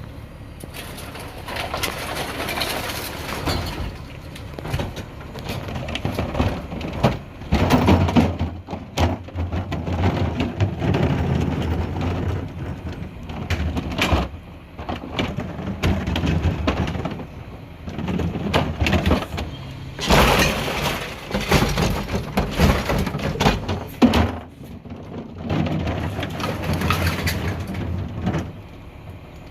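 Mack McNeilus rear-loader garbage truck working a recycling pickup: its diesel engine hums steadily while recyclables crash and clatter into the rear hopper in repeated loud bursts, the loudest about eight and twenty seconds in.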